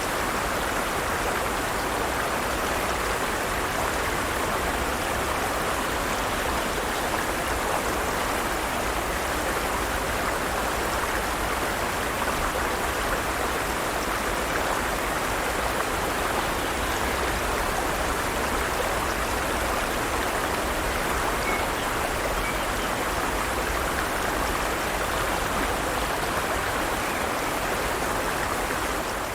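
Forest stream, water running steadily over rocks.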